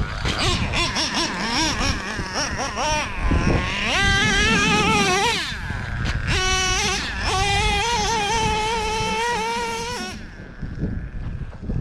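Two-stroke nitro engine of a Traxxas Revo 3.3 RC monster truck (OS .21 TM) revving up and down as it is driven, held at a high whine for a couple of seconds at a time. Near the end it drops to lower, quieter revs.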